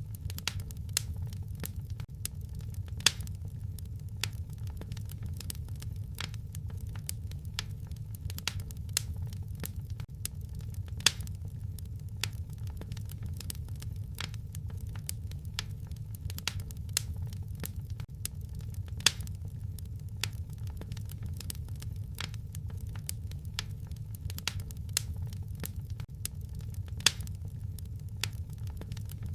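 Wood fire crackling: a steady low rumble of flames under a constant scatter of small irregular snaps. Four louder pops stand out, about eight seconds apart.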